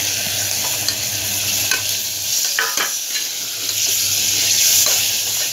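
Chopped tomatoes sizzling in hot oil and fried onion-spice masala in an open pressure cooker, stirred with a metal ladle that scrapes against the pot a few times around the middle and near the end.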